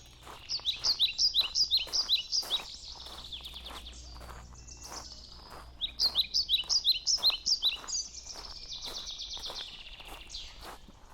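A songbird singing: two runs of quick, repeated, high chirps, about four or five a second, the second run ending in a buzzy trill. Footsteps on a path sound steadily underneath.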